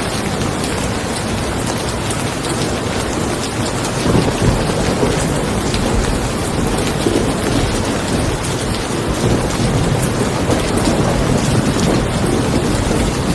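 Steady rain, with a low rolling thunder rumble that swells about four seconds in and carries on.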